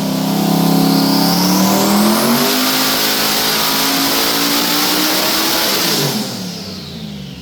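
Twin-turbo 427 LS V8 making a full-throttle pull on a hub dyno at about 18 psi of boost. The engine note climbs through the revs with a high whine rising over it for the first two seconds, holds near the top, then falls away about six seconds in as the throttle is lifted.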